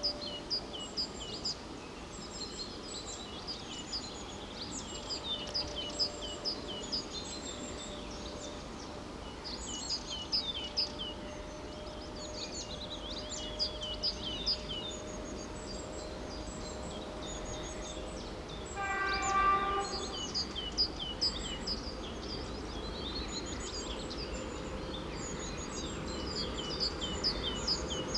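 Birds chirping and singing throughout. About two-thirds of the way in, a VL80S electric locomotive gives one short, faint horn blast of about a second and a half.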